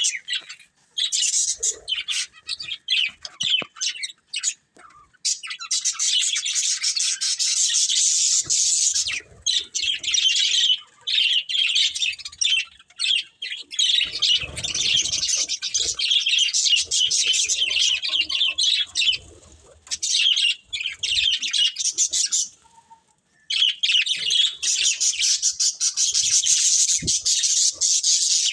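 Budgerigars chirping and chattering in long, dense stretches of rapid high chirps, broken now and then by brief pauses.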